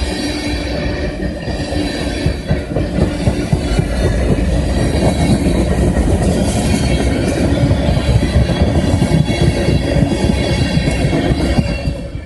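Freight train tank cars rolling past close by, steel wheels rumbling and clacking on the rails with a faint high wheel squeal. The sound drops away at the very end as the last car passes.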